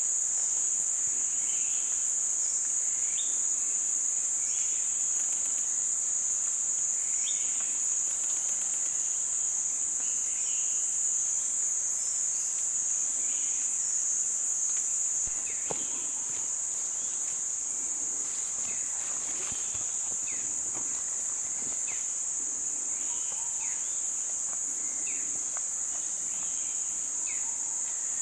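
Steady high-pitched drone of a forest insect chorus, with faint short calls scattered through it.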